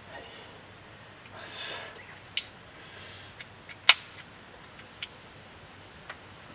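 Scattered clicks and knocks of things being handled, with a short hiss about two and a half seconds in and one sharp click, the loudest sound, about four seconds in.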